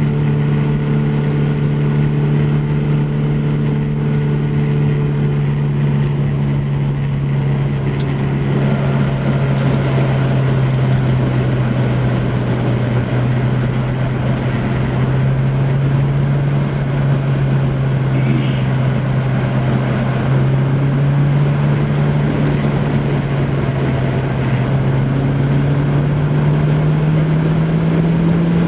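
MGF Trophy 160's 1.8-litre K-series four-cylinder engine cruising at steady revs, a steady drone that sags a little in pitch midway and rises near the end. Wind and road noise grow louder after about eight seconds.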